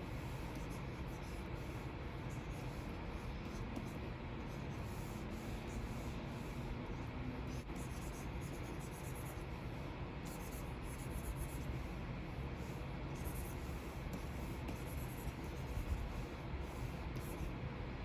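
Stylus nib scratching and rubbing across the surface of a Wacom Cintiq 24 Pro pen display in many short, irregular strokes, over a steady background hiss and low hum.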